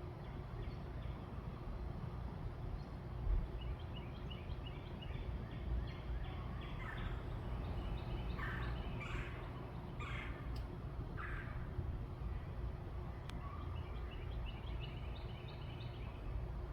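Backyard birds calling: a few quick runs of short, high repeated notes, and in the middle four or five louder falling calls about a second apart, over a steady low background rumble.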